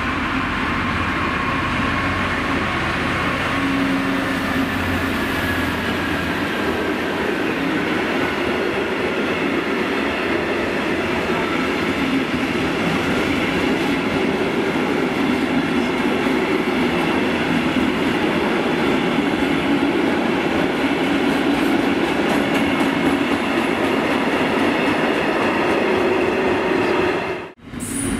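Diesel-hauled freight train passing close by: the locomotive followed by the steady rumble of its wagons running on the rails, broken off abruptly by a cut near the end.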